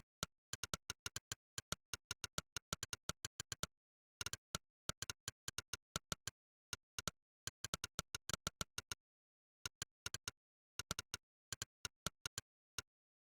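Monkeytype's 'click' keypress sound effect, one sharp click for each key typed in an uneven typing rhythm of several clicks a second. There are short pauses twice, and the clicks stop just before the end.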